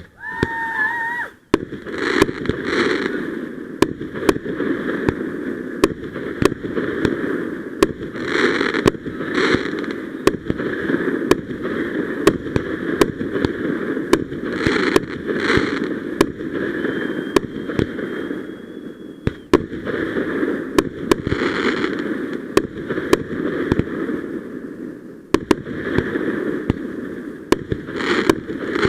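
Fireworks going off: many sharp bangs over continuous crackling, with bursts swelling every few seconds.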